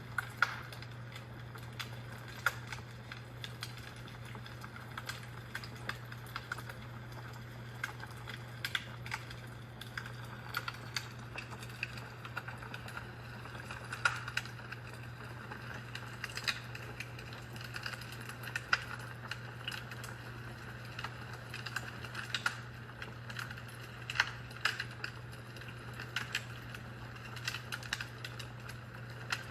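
Fireplace fire crackling: irregular small pops and snaps, a few a second, over a steady low hum.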